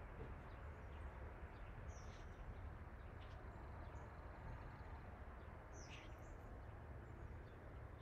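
Quiet outdoor ambience: a steady low rumble under a few short bird chirps, the clearest about two seconds in and about six seconds in.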